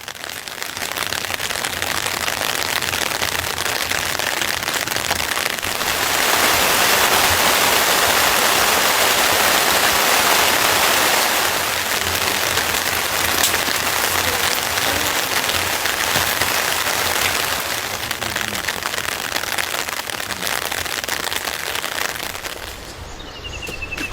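Heavy rain pouring down steadily. It is at its heaviest from about six to eleven seconds in and eases a little near the end.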